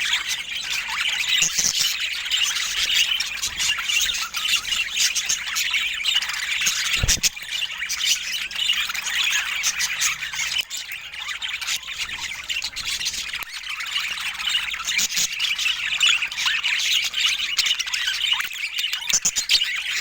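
A flock of budgerigars chattering continuously, a dense mix of warbling, chirps and squawks. A single short knock sounds about seven seconds in.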